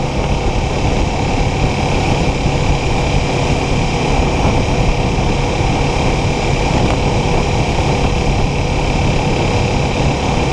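Kawasaki Ninja 400 parallel-twin engine running steadily in fifth gear at about 40 mph, with rushing wind and road noise. It gives an even, unchanging drone.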